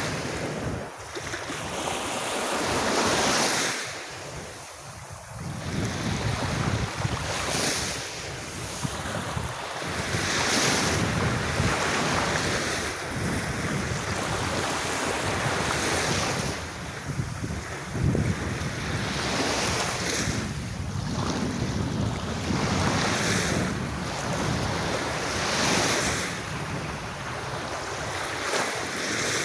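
Gentle sea waves washing onto a sandy beach, swelling and falling back every few seconds.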